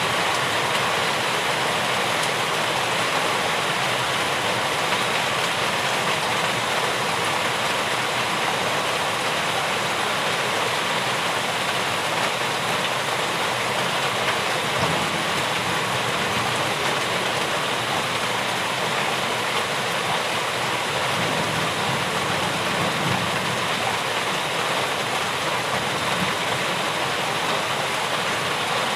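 Steady rain falling, an even rush of noise with no breaks or changes.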